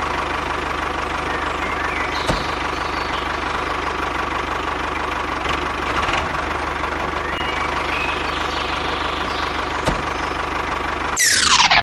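Engine idling steadily. Near the end comes a short, loud falling whoosh.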